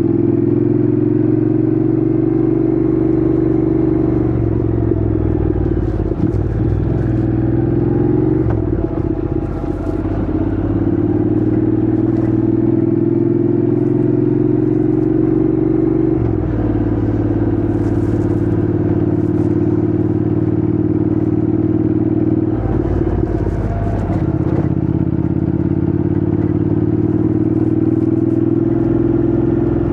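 Honda NC750X parallel-twin engine running under way on a ride, its note held steady and shifting in pitch a few times as the revs change.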